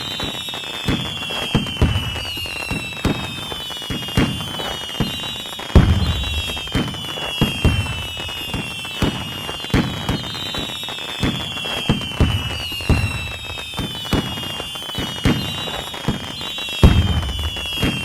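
Fireworks sound effect: a steady run of sharp bangs and crackling pops with a few deeper booms, under high whistles that keep gliding down in pitch, one after another every couple of seconds.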